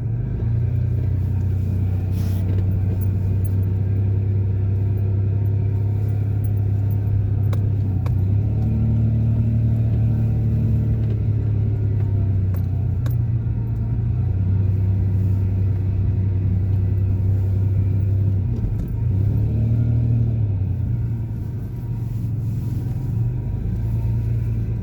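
Pickup truck engine and road noise heard from inside the cab while driving: a steady low drone whose pitch steps up briefly about eight seconds in and again near twenty seconds, as the truck speeds up.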